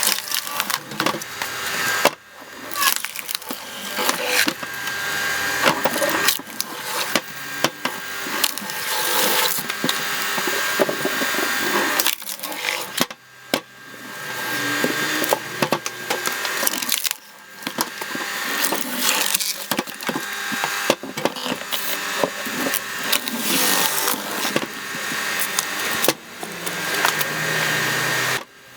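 Screw-cone log splitter boring into firewood logs, the wood creaking, cracking and splintering as it bursts apart, in several long spells with short pauses between.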